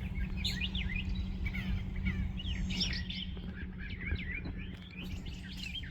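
Small birds chirping: many quick, short chirps in a rapid jumble, over a low, steady background rumble.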